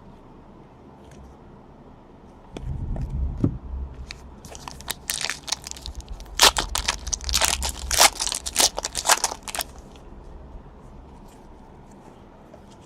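Handling noise, then a few seconds of crinkling, crackling and tearing, typical of a trading-card pack wrapper being ripped open.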